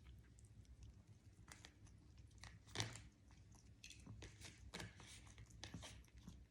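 Faint crunching and clicking of an African grey parrot chewing with its beak: a scattered series of small crunches, with a louder one about three seconds in.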